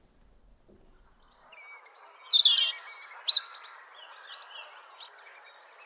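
Small birds chirping and singing, a quick run of high chirps and short sweeping notes that starts about a second in, after near silence, over a faint steady background noise.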